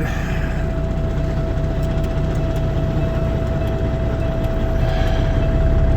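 Semi truck's diesel engine idling steadily just after a cold start in freezing weather, a low rumble with a steady whine over it, growing slightly louder near the end.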